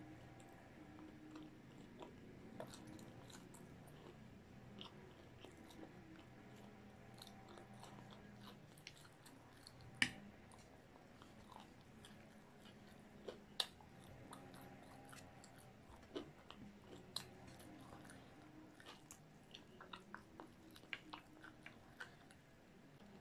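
Close-miked chewing of fried chicken, with scattered sharp mouth clicks and crunches over a faint steady background; the loudest click comes about ten seconds in.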